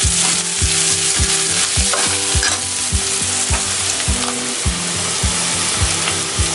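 Chopped vegetables sizzling in hot oil in a stainless-steel kadai while a steel ladle stirs them, the strokes coming about three a second over a steady frying hiss.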